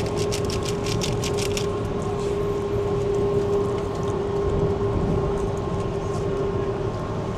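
Vande Bharat Express electric train running, heard inside the carriage: a steady rumble with a constant hum. A quick run of sharp clicks or rattles sounds in the first second or so.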